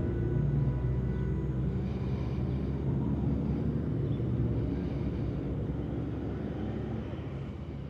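Steady low rumble of motor-vehicle traffic, with a faint high whine in the first second or so, easing slightly near the end.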